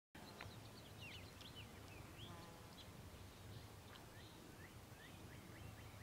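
Faint chorus of small birds: many short chirps and quick rising and falling whistles, scattered throughout, over a low steady rumble.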